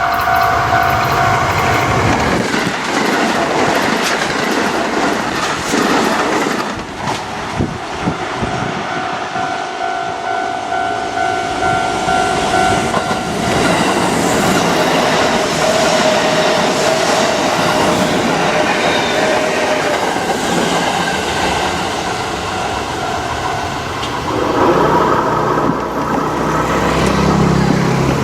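A Kintetsu Osaka Line electric train passes over a level crossing, its wheels clattering over the rails with a long, dense noise. The crossing's warning bell rings at the start and again near the end as the train clears.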